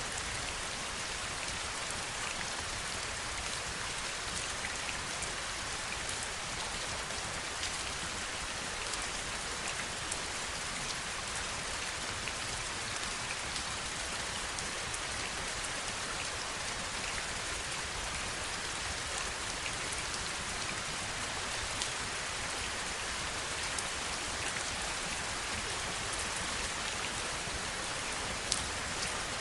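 Steady rain falling, an even hiss with scattered louder drop ticks, one sharper tick near the end.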